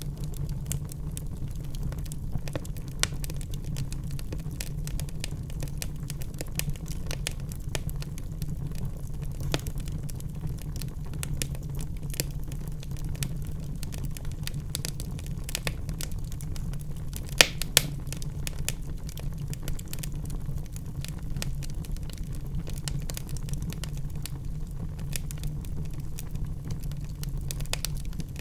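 Wood fire crackling in a fireplace: a steady low rumble under frequent small pops and snaps, with two sharper pops close together about two-thirds of the way through.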